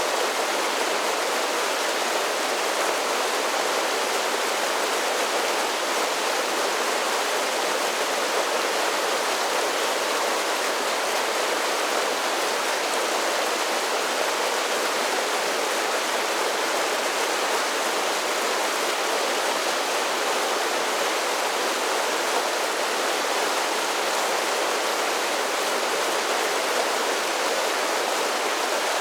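Mountain creek cascading down a series of small waterfalls: a steady, even rush of water that never changes.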